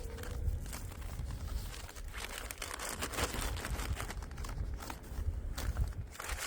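Skipping with a jump rope on snow: irregular crunching strokes as the feet and rope hit the snow, with wind rumbling on the microphone.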